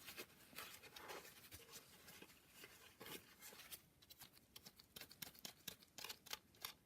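Faint clicks and scratching of small metal engine parts being handled: a connecting rod cap and its bearing being taken apart after cleaning.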